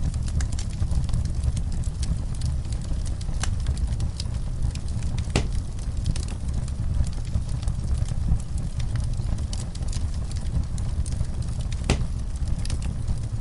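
Wood fire burning in a fireplace: a steady low rumble of flame with constant small crackles and a few sharper pops, the loudest about five seconds in and near the end.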